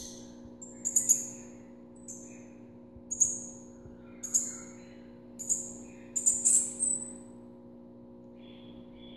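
Pyrrhuloxia fledgling giving high, sharp begging calls, about six in a row roughly a second apart, some sliding down in pitch, as it begs to be fed. A steady low hum runs underneath.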